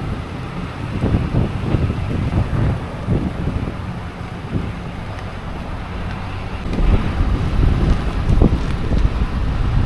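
Strong blizzard wind gusting and buffeting the microphone, a heavy low rumble that surges irregularly and picks up again near the end.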